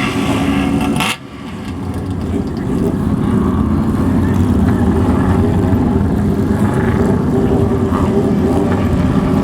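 Old motorcycle exhaust: an engine note that breaks off about a second in, then a deep steady exhaust note that swells over a couple of seconds and holds at a loud, even level.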